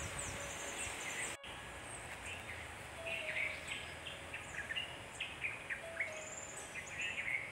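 Small birds chirping in the background: many short, quick calls that come thicker from about three seconds in, over a steady outdoor hiss. The sound drops out for an instant about a second and a half in.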